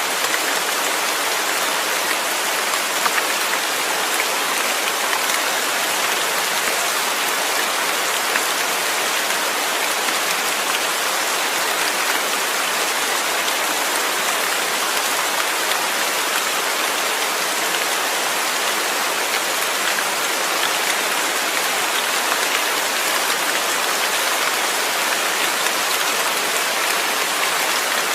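Steady rain falling, a dense even hiss of drops with faint scattered patter.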